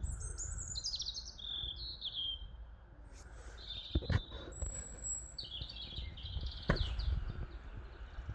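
A small songbird singing: a fast, chirpy phrase that falls in pitch, then a short high whistle and a second chirpy phrase, over a low wind rumble on the microphone, with a couple of sharp knocks.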